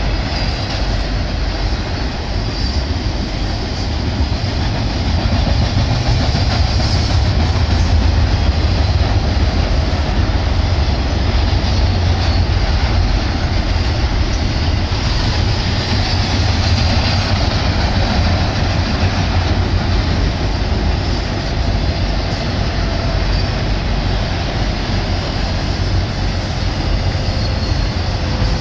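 BNSF intermodal freight train rolling past, its flatcars loaded with semi-trailers: a steady rumble of steel wheels on the rails, going on without a break.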